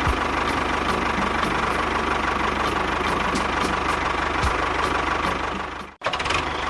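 An engine idling steadily with a regular tick about three times a second. It cuts off abruptly about six seconds in, and a quieter steady running sound follows.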